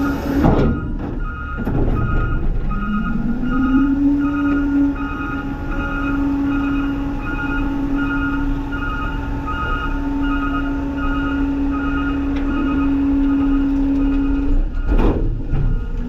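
Garbage truck's reversing alarm beeping about once a second over the truck's engine running with a steady low tone. A sharp crack sounds about half a second in and again near the end.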